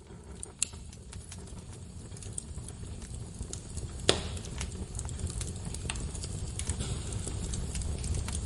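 Wood fire crackling and popping over a low steady rumble of flames, with two sharp loud pops, one about half a second in and a louder one about four seconds in. The fire sound fades in from near silence at the start and grows steadily louder.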